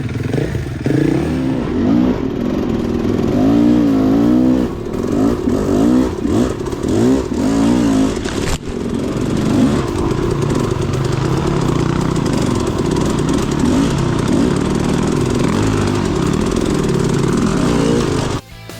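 Dirt bike engine revving up and down several times, then running at a steadier pitch, cutting off suddenly near the end.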